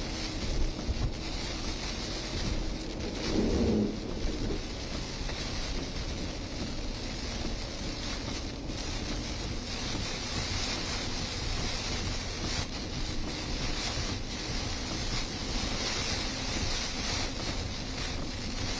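Heavy rain hissing steadily in strong wind, with wind buffeting the microphone in a low rumble. A brief louder gust rushes through about three and a half seconds in.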